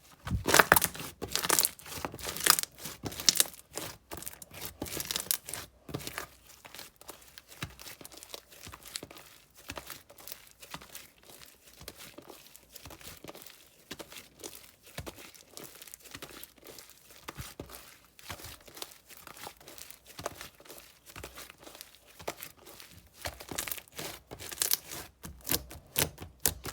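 Hands playing with slime: a dense, irregular run of crackling clicks and pops, loudest in the first few seconds and again near the end.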